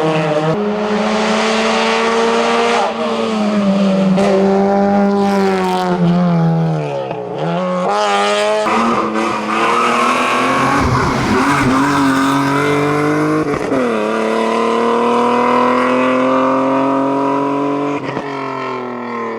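Race car engine at high revs, its pitch held high with sharp drops and recoveries about seven seconds in and again around fourteen seconds as the driver lifts and changes gear.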